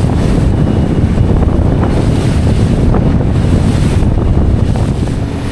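Strong wind buffeting the microphone in a steady, rough rumble, over the sound of choppy sea.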